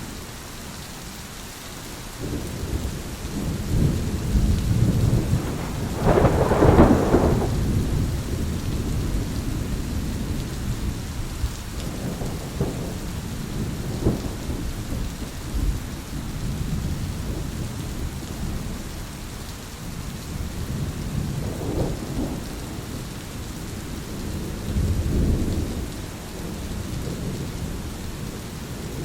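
Thunderstorm: rain falling steadily under low rolling thunder, with a loud clap that swells about six seconds in and fades into rumbling, and another roll of thunder near the end.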